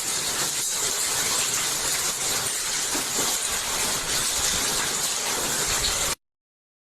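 Hailstorm: hail and rain coming down hard, a dense steady hiss with many small hits mixed in. The sound cuts off abruptly about six seconds in.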